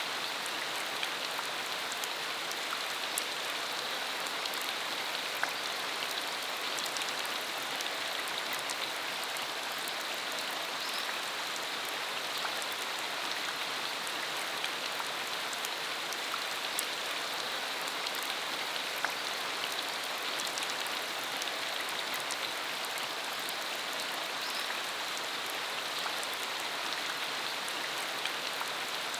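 Steady rain falling on a dirt road, an even hiss with many small scattered drop ticks.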